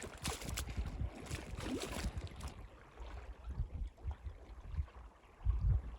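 Kayak paddling on open water: the paddle splashes and drips for the first couple of seconds, then the water goes quieter. Low rumbling buffeting, loudest near the end, runs under it.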